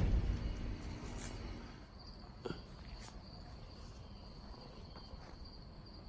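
Steady high-pitched insect chirring in the trees. A loud, low-heavy noise dies away over the first second, and there is one short click about two and a half seconds in.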